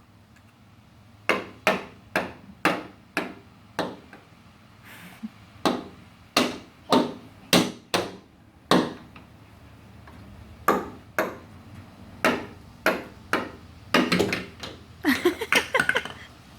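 A series of sharp knocks and taps, roughly two a second in irregular runs, with a denser burst of them near the end.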